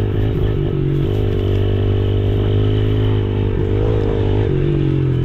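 Yamaha TTR110E pit bike's single-cylinder four-stroke engine running steadily under way, its pitch rising and falling a little about four seconds in.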